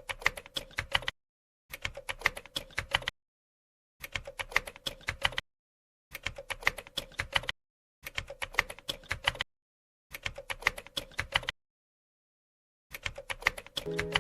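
iPhone-style phone keyboard key clicks from typing, in seven quick runs of about eight to ten clicks each, with dead silence between runs. A sustained musical note comes in under the last run near the end.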